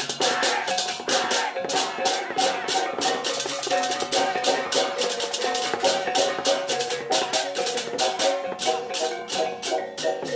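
Balinese gamelan music: fast, even clashing of small cymbals, several strokes a second, over ringing metallophone notes.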